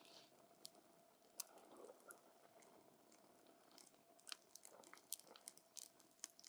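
Wood campfire crackling faintly, with irregular sharp pops that come more thickly in the second half.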